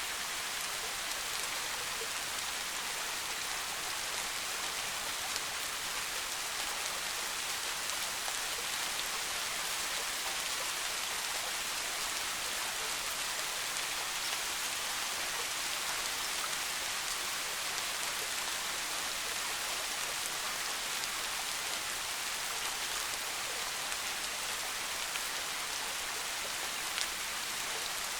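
Steady soft rain falling on forest foliage, an even hiss with scattered drop ticks.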